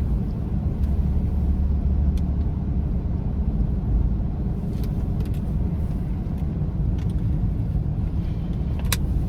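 Steady low rumble of a car driving slowly on slushy, snow-covered road, heard inside the cabin: tyre and road noise with the engine underneath. A few light clicks, the clearest one near the end.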